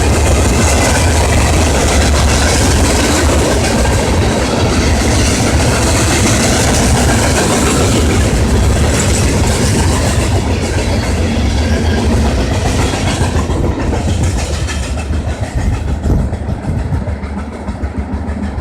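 A train rolling past at close range, its wheels rumbling and clacking over the rail, loud and steady before easing off over the last few seconds.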